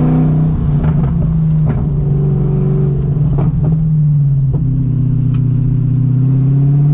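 BMW M60 V8 with a straight-piped exhaust, running a steady drone while the car is driven. The pitch sags a little midway and climbs again near the end, with a few short knocks or rattles over it.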